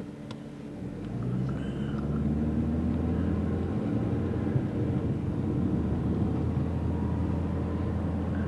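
Car engine and road rumble heard from inside the cabin of a moving car, growing louder about a second in and then running steadily.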